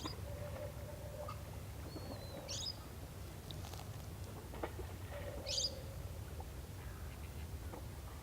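Birds calling. A whistled call ending in a sharp whip-like sweep, followed by lower answering notes, repeats about every three seconds over a steady low rumble.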